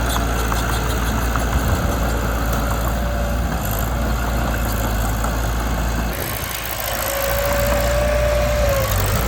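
Mitsubishi BD2 small bulldozer's diesel engine running steadily. The sound shifts about six seconds in, and near the end a squeal holds one pitch for about two seconds.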